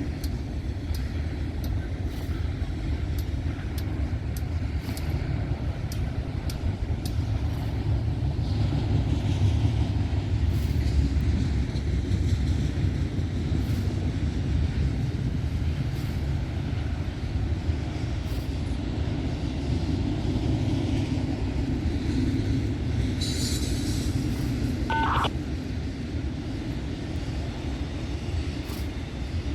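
A long freight train rolling past with a steady low rumble, broken by scattered sharp clicks. A brief hiss comes about 23 seconds in, followed by a short tone.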